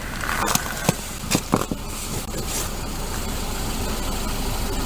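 A car engine idling steadily, with several sharp clicks and knocks in the first two seconds.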